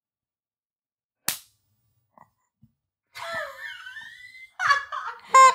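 A rubber band snaps once against a bare forearm about a second in. From about three seconds in come squeaky gliding noises, building near the end to a loud, short squawk: air forced out through a rubber chicken held in the mouth.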